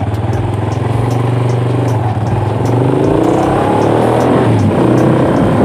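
Rusi DL150 motorcycle's 150 cc engine running as the bike pulls away. The revs rise from about halfway through, with a brief dip about four and a half seconds in.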